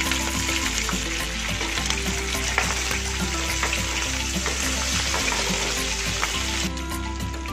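Salted fish (ikan peda) frying in a little hot oil in a wok: a dense, steady sizzle with scattered small pops and crackles. The sizzle thins out a little shortly before the end.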